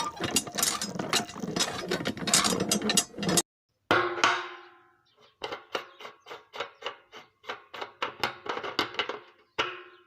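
Rapid mechanical clattering, typical of a small geared motor running, for about three and a half seconds and then cut off abruptly. After a short gap comes music of struck, quickly decaying mallet-like notes, about four a second.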